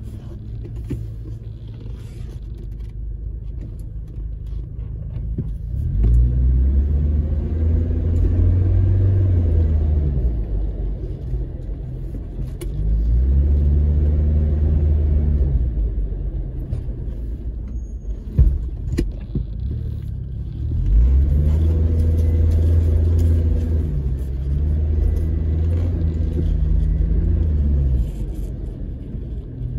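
Off-road vehicle's engine heard from inside the cabin while driving over sand dunes, its revs rising and falling with strong surges of throttle about six, thirteen and twenty-one seconds in. A single sharp knock about eighteen seconds in.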